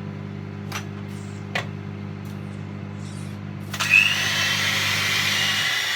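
Electric hand mixer running steadily, its motor humming as it whips double cream. About four seconds in, a louder hissing rush comes in over it, and the motor hum cuts off near the end.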